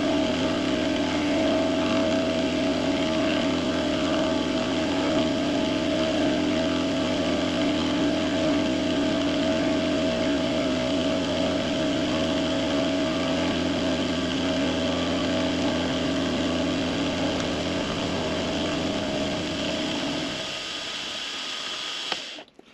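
A benchtop milling machine's motor and spindle run steadily at a constant pitch through a cutting pass along the edge of an aluminum block. About twenty seconds in the machine is switched off, and it winds down to a stop near the end.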